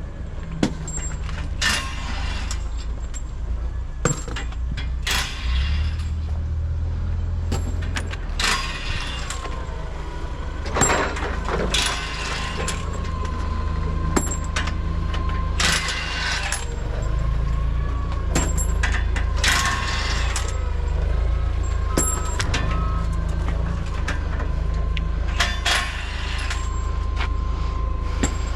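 Heavy diesel machinery running with a steady low rumble, overlaid with repeated sharp metallic clanks and knocks, and a steady high whine through the second half.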